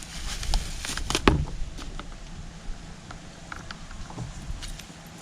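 Handling noises: scattered clicks and light knocks, with one louder knock just over a second in, over a low rumble.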